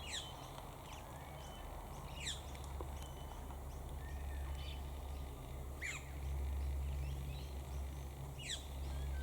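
Wild birds calling in the bush: short, high calls that sweep quickly downward, heard four times a couple of seconds apart, over a steady low hum.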